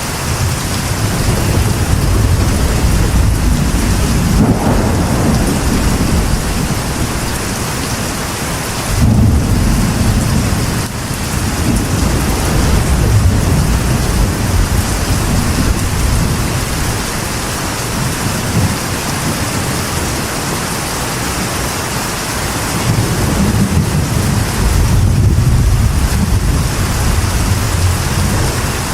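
Steady rain drumming on a metal roof, with thunder rumbling underneath that swells and fades several times, a sharper rumble starting about nine seconds in and a long one near the end.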